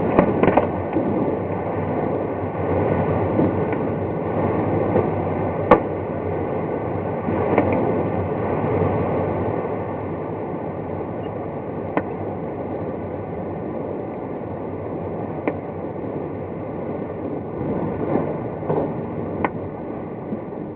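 Airflow rushing past a glider's cockpit in flight, swelling and easing with the gusts of a turbulent day, with a few sharp clicks and knocks from the airframe.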